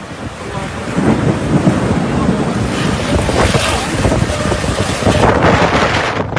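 Heavy rain with wind buffeting the microphone: a loud, continuous rushing noise with a low rumble, swelling about a second in.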